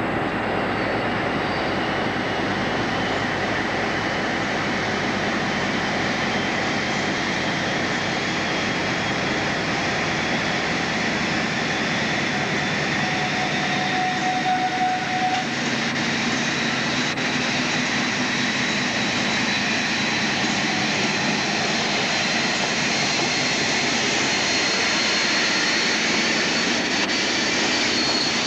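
Train moving through the station: a steady running noise with a high whine that slowly rises in pitch.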